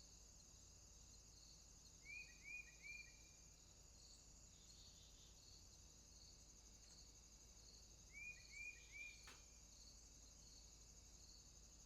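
Faint night-time rainforest insect chorus: a steady high trill with regular pulsing chirps. Twice, about two seconds in and again about eight seconds in, an animal gives a short call of three quick falling notes, and a faint click comes about nine seconds in.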